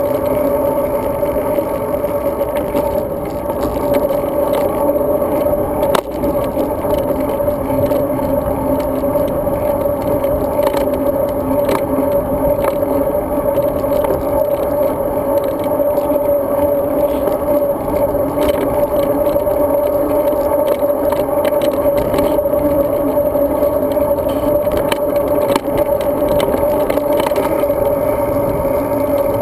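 Riding noise picked up by a GoPro Hero 2 mounted on a moving road bike: a steady, loud hum and rumble of tyres, road vibration and wind, with scattered short clicks and rattles from bumps.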